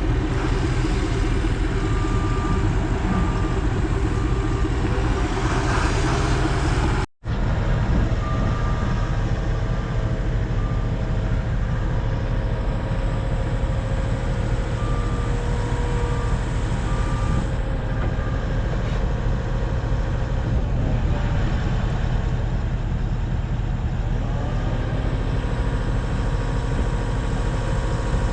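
Vehicle engine running steadily with a low rumble, with short evenly spaced beeps like a reversing alarm coming and going. The sound cuts out briefly about seven seconds in.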